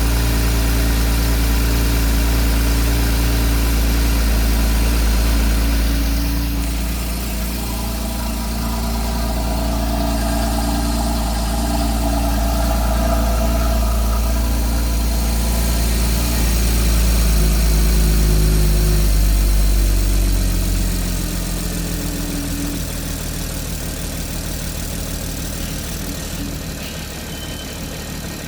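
Porsche Cayman S 981's 3.4-litre flat-six engine running at idle, steady and low-pitched; about 21 seconds in the idle drops and it runs more quietly.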